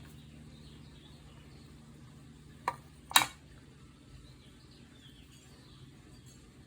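Two small sharp clicks of hard objects, about half a second apart with the second louder, over a faint steady low hum.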